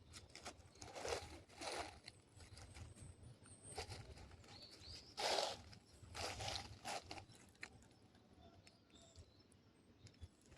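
Footsteps crunching on a mountain trail: a handful of uneven steps, the loudest about five seconds in, fading off after about seven seconds.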